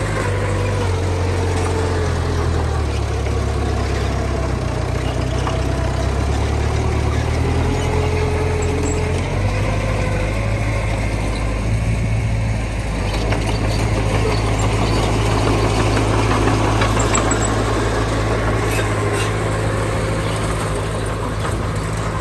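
Earthmoving machinery's diesel engine running steadily, a continuous low drone whose pitch shifts about nine seconds in.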